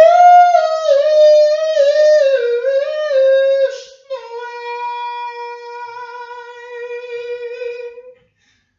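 A high voice singing a wordless tune. The pitch wavers up and down for the first few seconds, then one long steady note is held until it stops shortly before the end.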